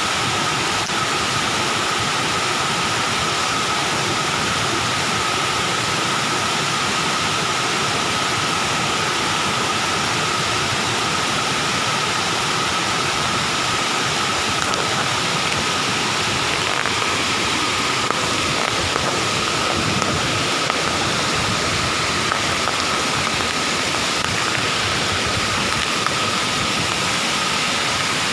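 Waterfall rushing: a steady, even noise of falling water with a faint steady high tone over it.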